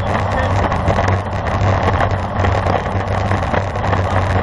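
Steady wind rush on a bike-mounted or helmet camera's microphone while riding at speed in a road race, with a strong low rumble and no breaks.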